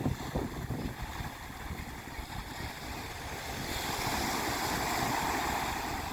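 Wind buffeting the microphone over the wash of water, with a rushing swell of water building about four seconds in and fading near the end.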